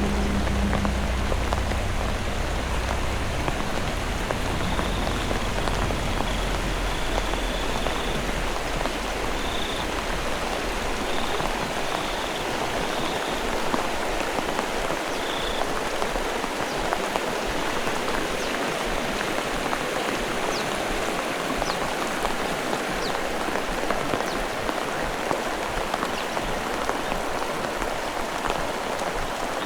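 Heavy rain falling steadily. A low rumble dies away in the first few seconds, and a few short high chirps come in the middle.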